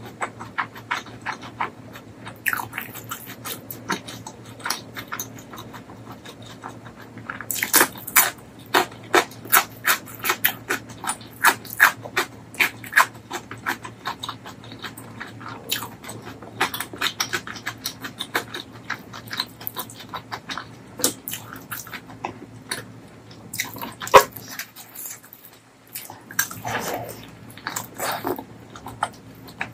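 Close-miked wet chewing and lip-smacking of a person eating mutton curry with rice: a dense run of sharp smacks, coming about two a second for a stretch in the middle, with one louder click near the end.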